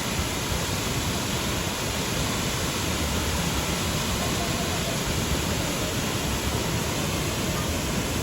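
Waterfall with a large volume of water pouring down: a steady, unbroken rush of falling water.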